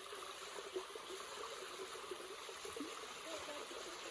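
Steady rush of running stream water at a waterfall, even throughout, with small irregular gurgles.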